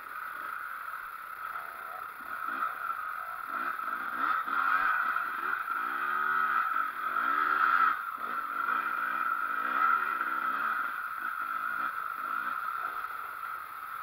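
Enduro motorcycle engine revving up and down repeatedly while riding a wooded trail, the pitch rising and falling with the throttle and loudest around the middle.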